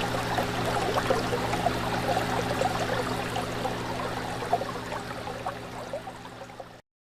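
Fish tank water bubbling and trickling, with many small bubble pops, over a steady low hum. It fades over the last few seconds and cuts off just before the end.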